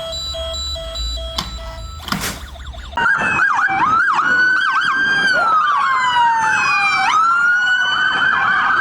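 Toy police car's electronic siren switched on: after a click about two seconds in, a loud warbling yelp-and-wail siren sounds, with one long falling wail that snaps back up near the end.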